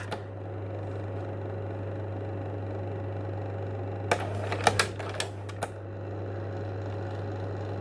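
A steady low mechanical hum, with a short run of sharp clicks and clacks about four to six seconds in.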